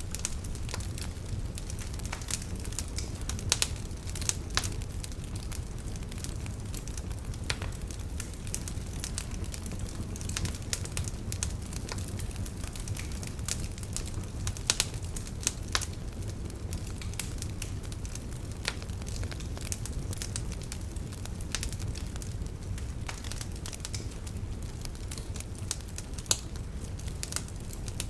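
Wood fire of burning logs in a fireplace, crackling with frequent irregular sharp pops over a steady low rumble of the flames. A few pops stand out louder than the rest.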